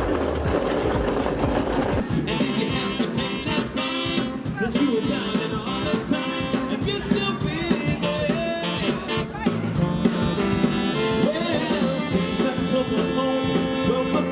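A live brass band with a drum kit playing an upbeat pop number, coming in abruptly about two seconds in. Before that is a dense wash of background music.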